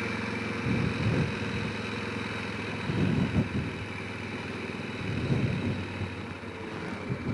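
Honda Rincon 650 quad's single-cylinder engine running steadily at low revs, with louder rough patches about a second in, around three seconds and again past five seconds.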